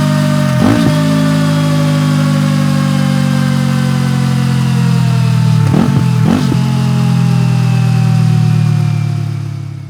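Kawasaki Eliminator 400's parallel-twin engine idling through a BEAMS POWERHEADER aftermarket exhaust, with a quick throttle blip about a second in and two more in quick succession around six seconds in. The sound fades out near the end.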